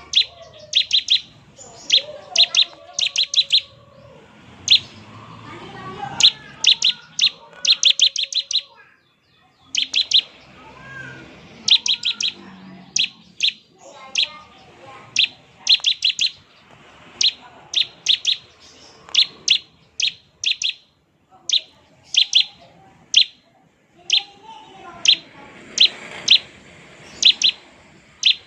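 Bar-winged prinia (ciblek) singing in the rapid 'ngebren' style: runs of three to six short, sharp, high chips, repeated about once a second with short gaps.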